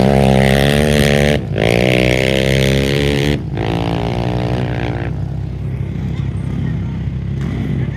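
A race motorcycle or quad engine running at high revs as it passes, its note cutting out briefly twice, about a second and a half and three seconds in, then falling in pitch and fading out about five seconds in.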